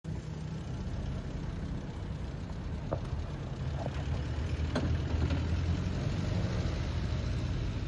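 Police patrol car engine running with a steady low rumble as the car rolls slowly forward, no siren, with two or three short sharp clicks around three and five seconds in.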